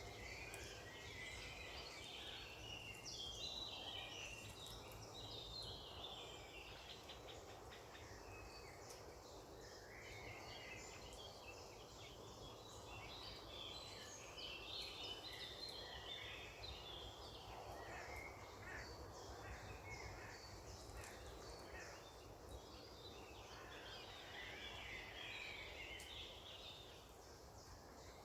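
Wild birds singing and chirping: a faint, busy chorus of many short high calls overlapping, over a steady low background hiss.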